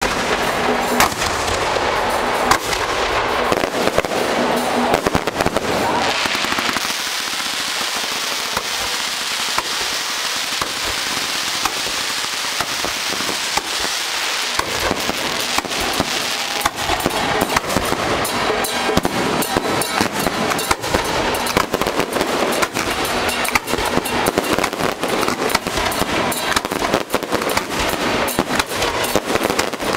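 Firecrackers and fireworks going off from a firework cart: a dense, continuous crackle of rapid bangs. Between about 7 and 15 seconds in it turns into a hissing spray with fewer low bangs.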